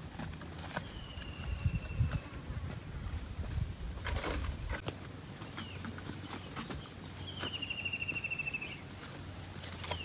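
Outdoor woodland sounds: scattered knocks and rustles, with a long slightly falling whistled call near the start and a fast trill of repeated notes about seven seconds in. A faint steady high insect tone joins about halfway through.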